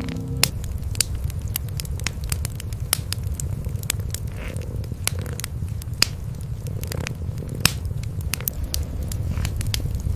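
Wood fire crackling with frequent sharp, irregular pops, over a continuous low purr of cats.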